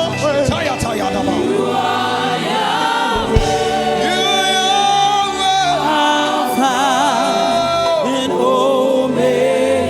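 Gospel choir singing a praise song in long held notes with vibrato, with a few sharp percussion hits.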